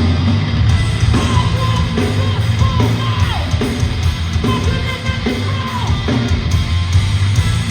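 Hardcore band playing live at full volume, with a yelled vocal over the music.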